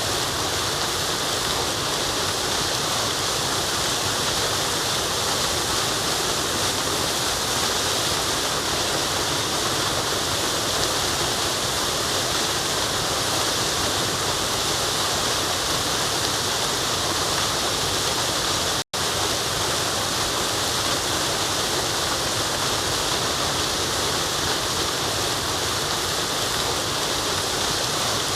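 Waterfall rushing in a steady, even hiss. It cuts out for an instant about two-thirds of the way through, then resumes unchanged.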